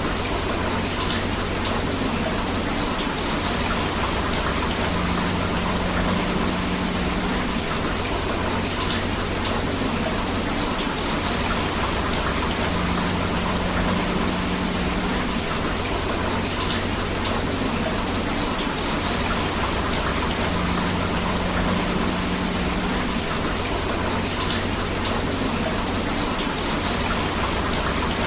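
Steady rain together with flowing river water: an even rushing hiss with no breaks, its texture repeating about every eight seconds.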